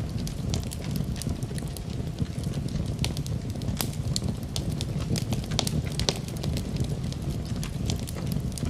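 Fireplace fire burning, a steady low rumble with frequent irregular crackles and pops.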